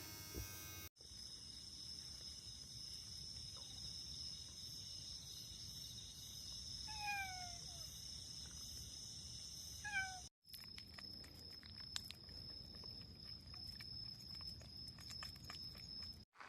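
A stray cat meowing: one long meow falling in pitch about seven seconds in, then a short one near ten seconds. Both sound over a steady high-pitched background drone.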